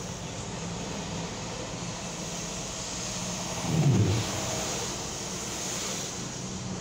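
Road traffic on wet pavement, a steady tyre hiss. One car passes close about four seconds in, swelling up and fading away.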